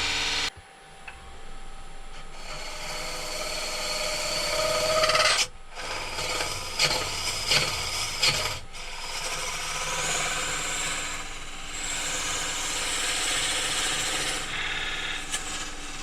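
Turning tool cutting into a spinning blank of wet poplar on a wood lathe, scraping as it hollows out the inside. The cut drops off sharply about half a second in, builds again, and breaks off briefly twice before resuming.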